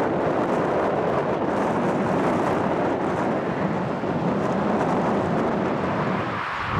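Steady noise of jet airliner engines, with wind buffeting the microphone.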